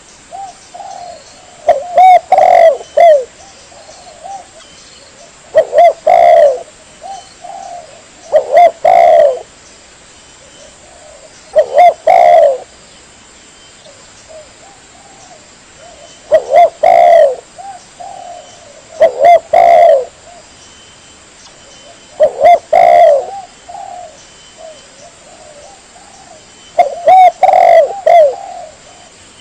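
Spotted dove (tekukur) cooing in a loud lure-call recording: repeated phrases of a few low coos every three seconds or so, with a longer pause near the middle and softer coos in between.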